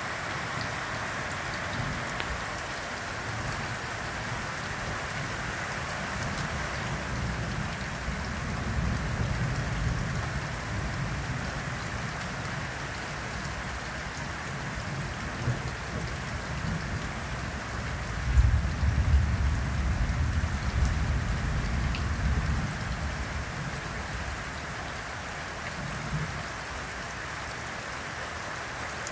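Steady rain falling in a thunderstorm, with rolls of thunder rumbling underneath. The loudest roll comes about two-thirds of the way through.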